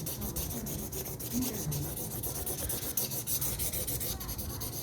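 Rapid back-and-forth coloring strokes on paper, a steady dry scratching as orange lava is shaded in on a drawing.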